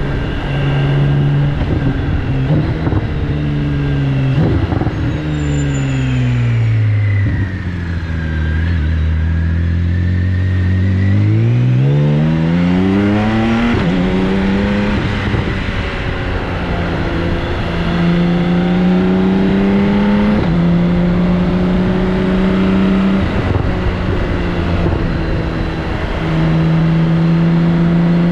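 BMW K1600GTL's inline-six engine running through a Hattech aftermarket exhaust while riding: the engine note drops steadily as the bike slows about a quarter of the way in, climbs again as it accelerates, then holds a steady cruising note with small shifts in pitch. Wind rush is heard under the exhaust.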